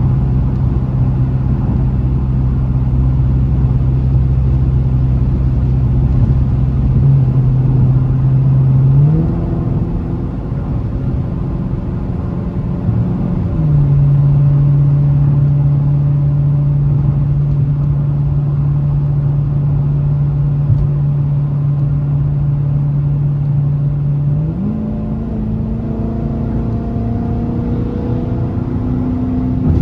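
Dodge Challenger Scat Pack's 392 (6.4-litre) HEMI V8 droning while driving, with road noise. The engine note steps up about nine seconds in, settles back down a few seconds later, then climbs again near the end as the car accelerates.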